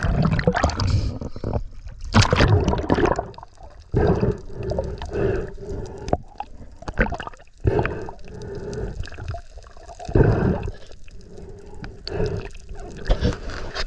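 Water gurgling and sloshing in irregular surges, as heard underwater while swimming.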